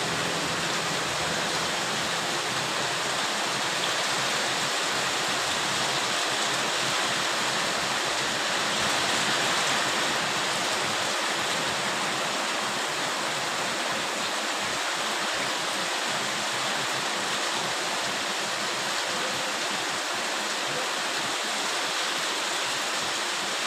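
Heavy rain pouring down in a sudden downpour: a steady, dense hiss.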